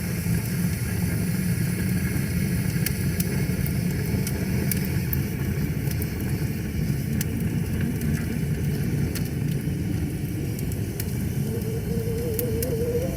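Steady low rush of flowing river water, with scattered sharp crackles and pops from a burning fire. A wavering hum comes in near the end.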